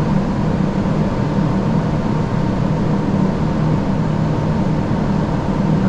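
Steady flight-deck noise of an Airbus A340-600 on final approach: an even rush of airflow and air conditioning over a low hum, with a faint thin whine held throughout.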